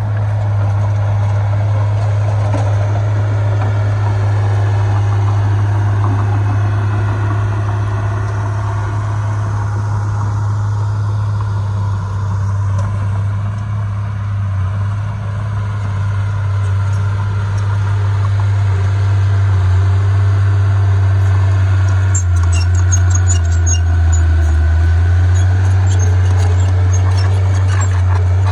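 Heavy diesel earthmoving machinery running steadily with a deep, even drone. From about 22 seconds in, quick metallic clinks and rattles join it.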